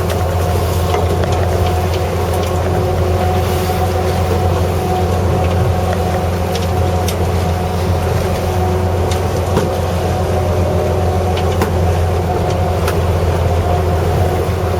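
Fishing boat's engine running steadily, a constant low drone with a steady hum above it, with a few faint ticks scattered through.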